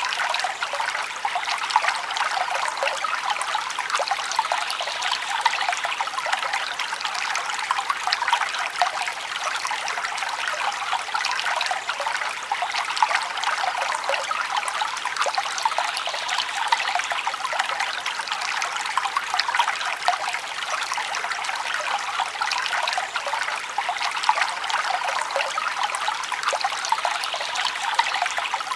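Forest stream flowing steadily: a continuous trickling, babbling rush of water, bright and light with little low rumble.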